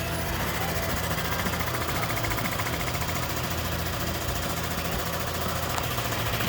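Comec ACF200 cylinder-head surfacing machine running: a steady hum with a fast, even mechanical ticking from the spinning cutter head and drive.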